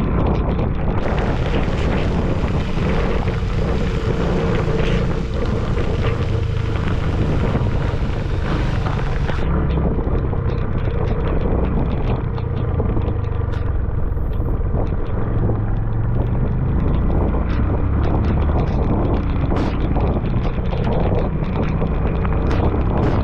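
Wind buffeting the microphone on a motorcycle ride through wind and rain, the engine running steadily underneath. A higher hiss joins in about a second in and cuts off suddenly about nine seconds in.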